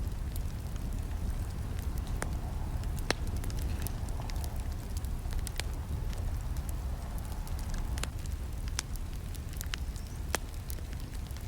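Wood campfire burning: a steady low rumble of flames with irregular sharp crackles and snaps, a few louder pops scattered through.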